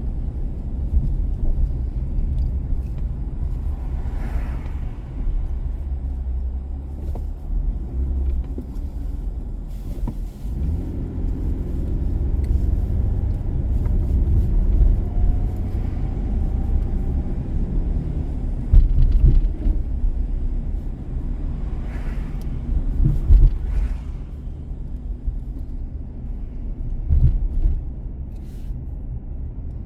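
Car driving through city streets: a steady low rumble of engine and tyres on the road. An engine note comes up about ten seconds in and holds for several seconds, and a few short thumps stand out in the second half.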